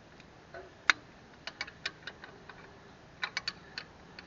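Irregular sharp metallic clicks and taps of small hand tools and parts being handled, about a dozen in all, the loudest about a second in and a quick cluster near the three-second mark.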